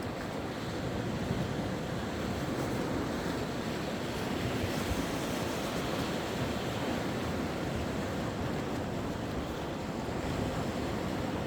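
Sea waves breaking and washing on the shore in a steady, even wash that swells gently, with some wind noise on the microphone.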